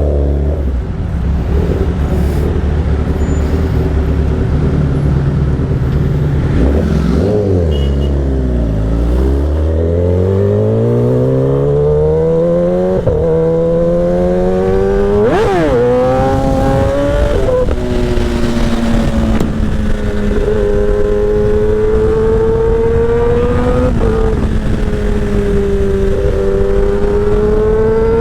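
Sportbike engine with a short SC Project exhaust, heard from the rider's seat at highway speed. Its pitch sinks, then climbs steadily in one long pull for several seconds, jumps and changes sharply around the middle, and then holds a fairly steady high-speed drone to the end, over a steady rush of wind.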